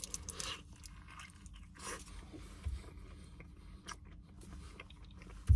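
A person biting into and chewing a mouthful of burrito: soft crunches and wet mouth clicks, scattered and irregular, over a faint steady low hum.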